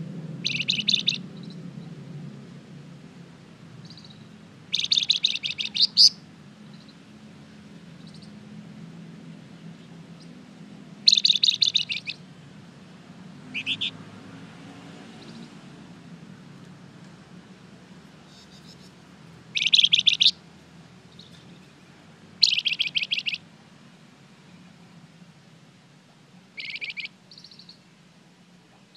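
Flamboyan songbird (a bird kept for song in Indonesia) singing short, rapid trilled phrases. There are about seven bursts, each under a second long, with pauses of a few seconds between them.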